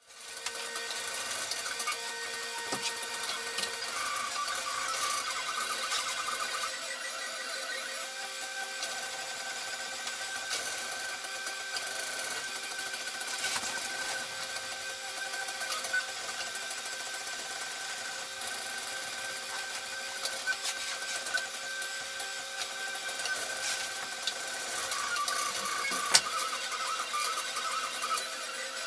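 3D printer running, its stepper motors giving a steady whine of several tones that change pitch as the print head moves. There is a sharp click near the end.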